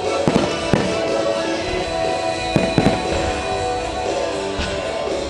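Aerial fireworks shells bursting, about four sharp bangs in two quick pairs, over a music soundtrack playing throughout.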